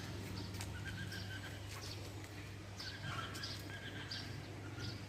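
Songbirds calling in short chirps and brief trills, over a steady low hum.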